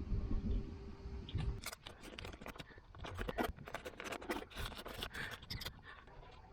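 Hand snips cutting thin sheet steel: a quick, irregular run of sharp snips and metal clicks, after a few low thuds at the start.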